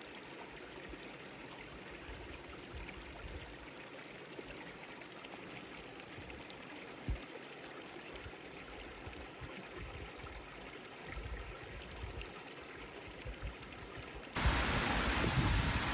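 Outdoor natural ambience: a soft, steady rushing hiss with some low rumble and a single short knock about seven seconds in. About fourteen seconds in it cuts abruptly to a much louder rushing noise.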